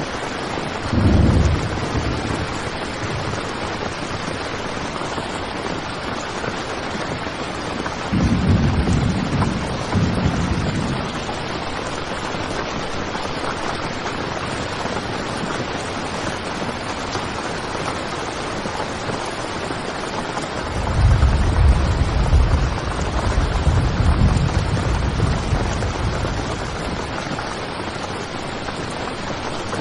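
Heavy rain falling steadily on a tent, an even dense hiss, processed as 8D audio to move around the listener. Low rumbles swell up about a second in, again around eight to eleven seconds, and for several seconds from about twenty-one seconds.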